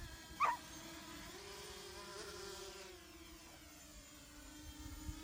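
Racing quadcopter drone buzzing faintly in flight, its propeller pitch wavering up and down as it manoeuvres. A brief high falling chirp sounds about half a second in.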